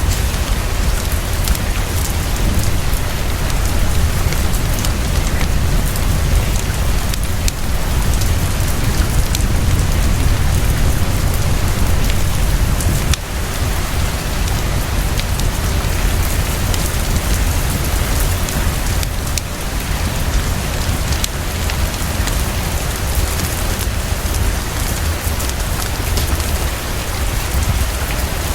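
Heavy, steady rainfall pouring down, with a deep constant low rumble beneath it. Scattered sharp ticks throughout, which may be the crackle of a wood fire in a fireplace.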